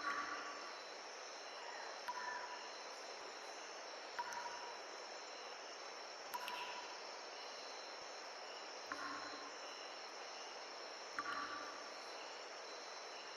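Insects chirring steadily over a soft even hiss, with a faint soft swish about every two seconds.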